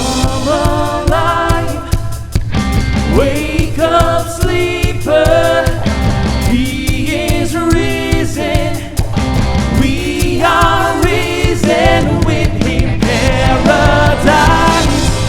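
Contemporary worship music: singing voices over a band with drums and a heavy low end, running continuously.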